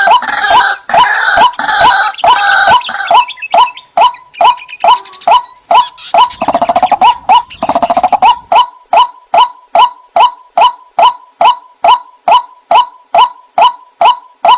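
White-breasted waterhen (ruak-ruak) calling: a long run of evenly repeated loud notes, about two to three a second. There is fuller, overlapping calling in the first few seconds and a harsher, rasping stretch about halfway through.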